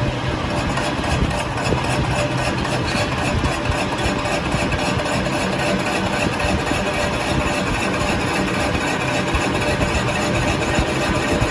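A machine running steadily.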